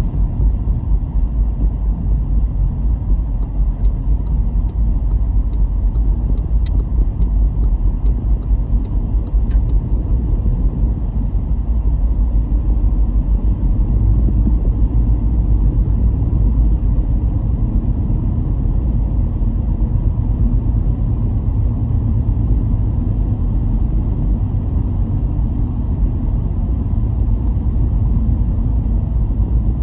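Car driving at a steady pace: a constant low rumble of engine and road noise, with a few faint ticks about a third of the way in.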